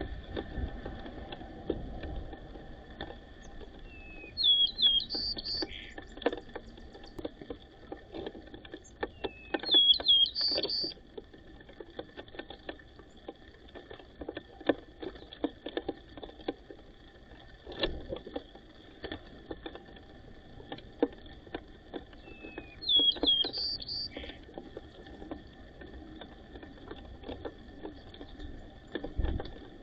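White-crowned sparrows calling: three short bursts of high chirps, with a fourth beginning right at the end, and scattered light taps and clicks between them.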